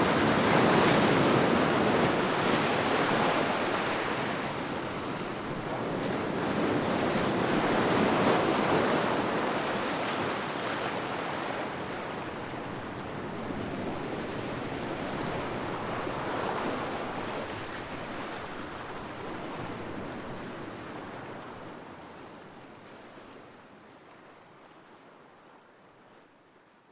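Sea waves washing onto the shore, the surf swelling and easing about every seven or eight seconds, then fading away over the last few seconds.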